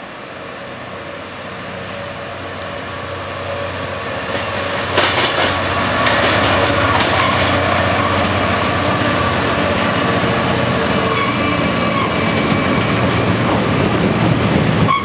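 Class 66 diesel-electric freight locomotive, with its EMD two-stroke V12 engine, approaching under power and passing close by. It grows steadily louder until it goes by about five seconds in, and then the tank wagons behind it run past with a rhythmic clickety-clack over the rail joints.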